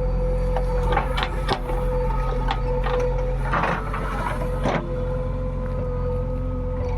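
Heavy diesel engine running steadily under a constant whine, with several sharp knocks: a quick cluster about a second in, a short clattering burst a little past the middle, and one more knock soon after.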